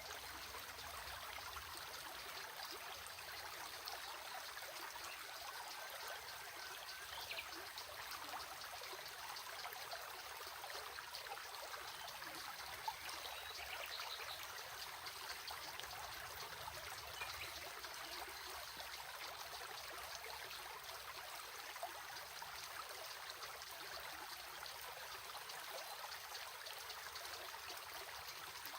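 Water of a small stream running steadily over stones.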